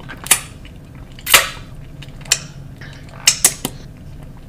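Wet mouth smacks and clicks from chewing a burger close to a headset microphone: about six short sharp sounds, the loudest a little over a second in.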